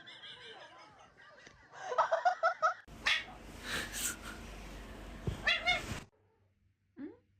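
A dog vocalising in short pitched calls, with a quick run of about five calls about two seconds in.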